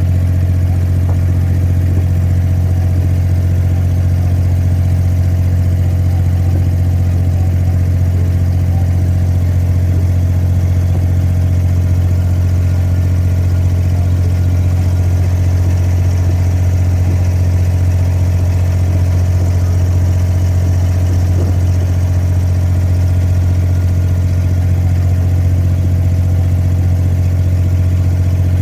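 Abra water taxi's diesel engine running steadily, a loud, even low drone while the boat crosses the creek.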